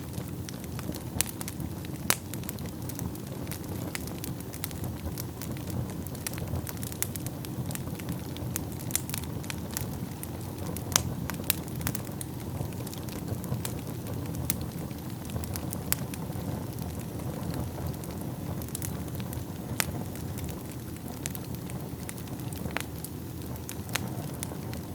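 Wood fire burning in a fireplace: a steady low rumble of flames with irregular sharp crackles and pops throughout, a few louder pops standing out.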